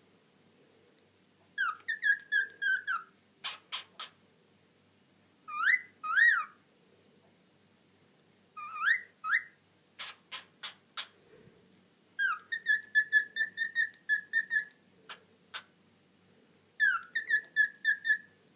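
Female cockatiel whistling and chattering to herself: warbled whistle phrases, paired rising whistles like a wolf whistle, and short sharp chirps in between.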